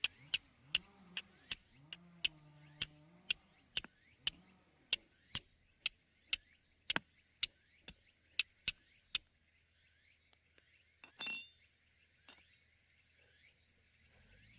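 A run of sharp, evenly spaced taps, about two to three a second, stopping after some nine seconds, then a single ringing clink a little later.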